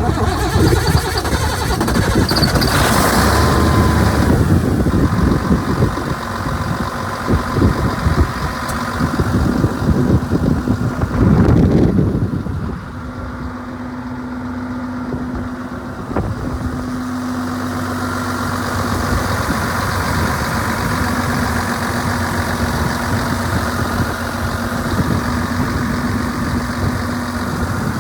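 Cat Challenger 65C tracked tractor's diesel engine running, loud and rough for about the first twelve seconds, then dropping to a steadier idle with a low hum.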